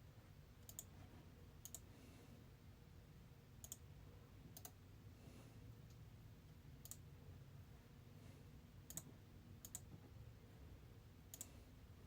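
Near silence with about eight faint, sharp clicks at irregular intervals over a low, steady hum.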